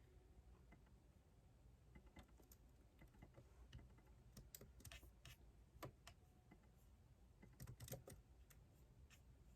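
Faint typing on a computer keyboard: irregular keystrokes in short runs, starting about two seconds in, with a louder flurry of keys near the end.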